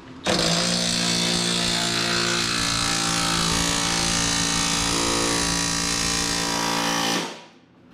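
A motor running at a steady, unchanging pitch for about seven seconds, starting abruptly and stopping near the end.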